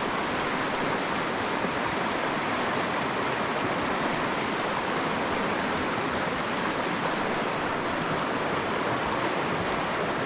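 Steady rush of a mountain creek's flowing water, an even noise with no splashes or breaks.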